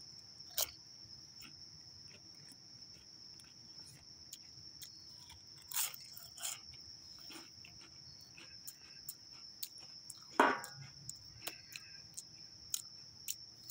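Chewing a Pringles Everything Bagel potato crisp: scattered short crunches and mouth clicks, the loudest about ten and a half seconds in. A steady high chirring of crickets runs underneath.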